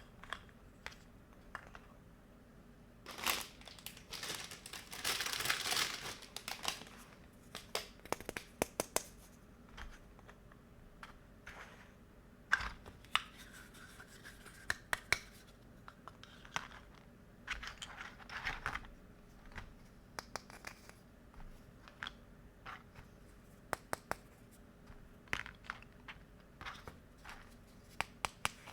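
Plastic toy kitchen pieces and their packaging being handled. Scattered light clicks and taps, with a stretch of tearing and crinkling about three to six seconds in.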